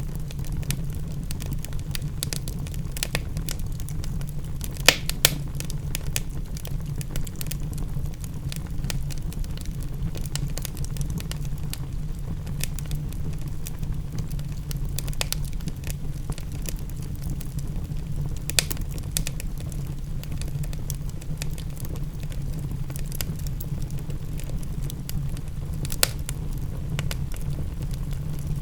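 Wood fire in a fireplace crackling, with irregular pops and a few louder snaps, over a steady low rumble.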